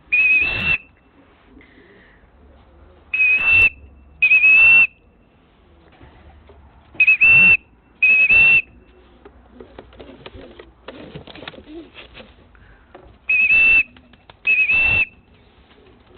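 A pigeon fancier's high, steady whistles calling a returning racing pigeon down into the loft. They come in pairs of short notes: one note right at the start, then three more pairs.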